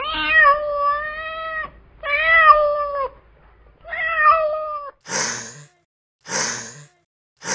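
Domestic cat meowing three times in long, drawn-out calls, followed by three short, breathy hisses about a second apart.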